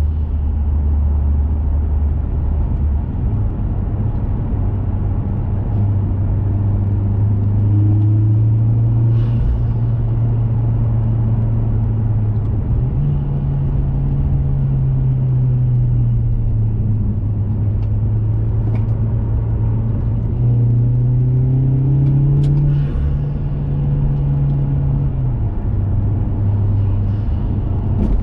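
2021 Mazda 3 Turbo's turbocharged four-cylinder engine droning through a CorkSport cat-back exhaust while driving, at moderate revs. Its pitch steps up and down several times as the throttle and revs change, rising about three seconds in and again near the middle, then dropping back near the end.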